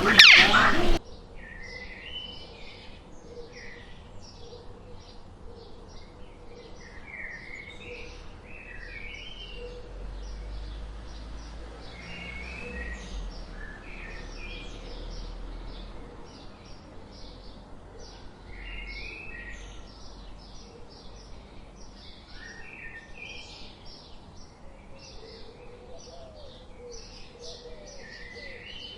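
Birds chirping in a busy chorus: many short, quick chirps overlapping all the while. It opens with a louder sound that cuts off sharply about a second in.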